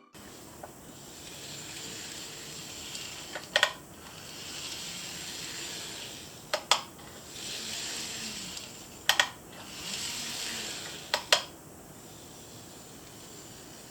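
N gauge model train running on track: a steady rushing hiss that swells and fades, with a sharp double click four times, about every two and a half seconds, typical of wheels crossing rail joints.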